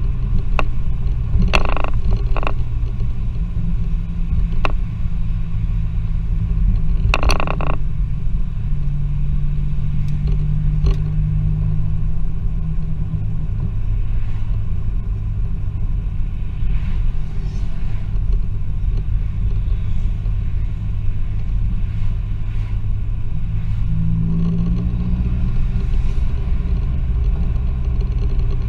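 Turbocharged 2.0-litre Z20LET four-cylinder engine of a remapped Vauxhall Astra van under way, heard from inside the cabin as a steady low rumble, its note rising twice under acceleration, about a third of the way in and near the end. A few short sharp cracks stand out in the first third.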